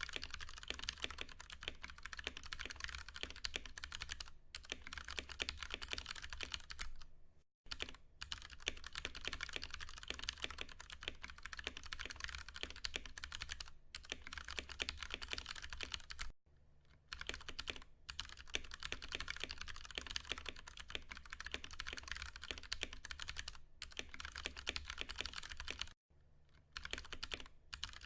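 Fast, continuous typing on a Ducky One 2 Mini mechanical keyboard with Cherry MX Brown tactile switches: a dense run of key strikes, broken by brief pauses about 7, 16 and 26 seconds in.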